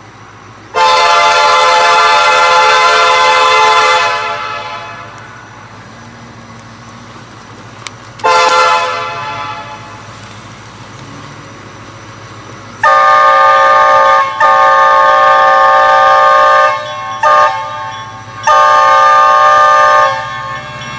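Train air horn sounding a series of loud blasts, a chord of several tones: a long blast, a shorter fading one, then a run of long and short blasts near the end, with a low rumble underneath.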